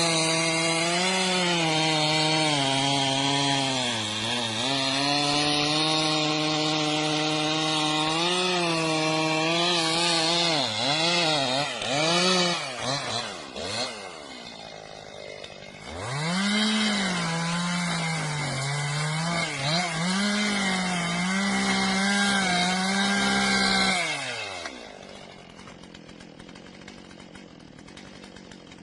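Two-stroke chainsaw running at high revs while cutting wood, its pitch sagging and recovering as the chain bites. It drops off about halfway through, speeds back up, then falls away to a quiet idle near the end.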